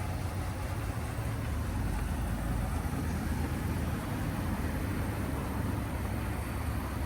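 Pickup truck's engine idling with a steady low rumble.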